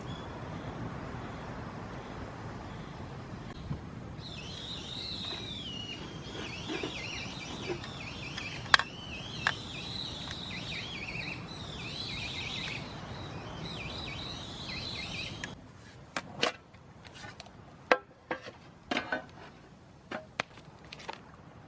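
A bird singing a long, varied warbling song with quick rising and falling notes over a steady background hiss. About two-thirds of the way through the background drops away and a scattered run of sharp clicks and taps follows.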